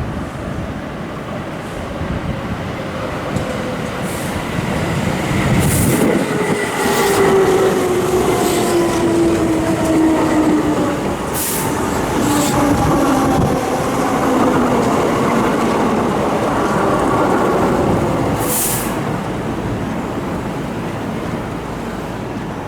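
Keihan electric train passing at speed, its motor whine falling steadily in pitch as it goes by over the noise of the wheels on the rails, with several sharp clicks from the track.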